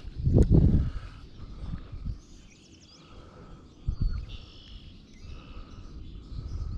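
Songbirds chirping and singing, with short high calls and trills. Low rumbling bursts on the microphone cut across them, the loudest about half a second in and a smaller one near four seconds.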